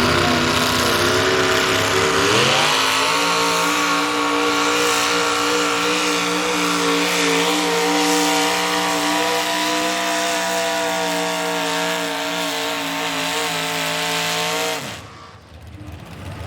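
Modified small-block V8 pulling truck at full throttle, pulling a weight sled. The engine note climbs about two seconds in, holds high and nearly steady for some twelve seconds, then cuts off sharply near the end.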